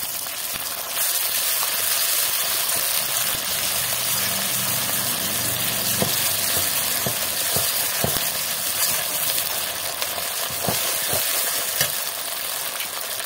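Onion, garlic and ginger spice paste frying in hot oil in a metal kadai: a steady sizzle that gets louder about a second in, with a flat metal spatula stirring and now and then clicking and scraping against the pan.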